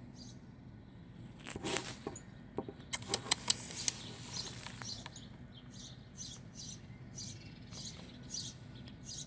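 A small bird chirping over and over, short high chirps about two a second in the second half, after a brief rustle and a few sharp clicks.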